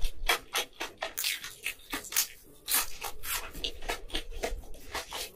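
Close-miked chewing of a crispy fried shrimp ring: an irregular run of crisp crunches, several a second.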